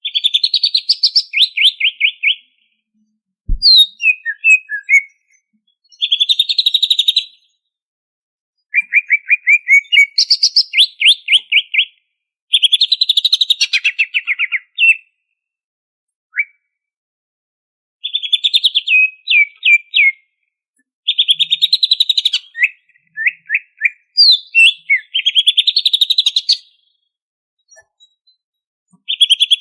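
Cucak ijo (green leafbird) singing loud phrases of rapid trilled notes, many falling in pitch, each a second or two long with short pauses between them. There is one short knock a few seconds in.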